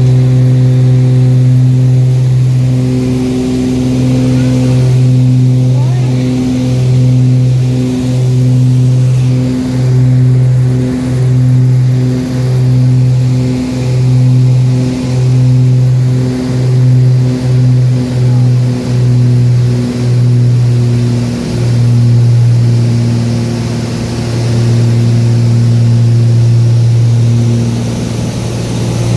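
Light aircraft's propeller engines droning steadily during take-off and climb. The drone pulses in regular swells about once a second that come faster and then stop about two-thirds of the way through, leaving an even drone.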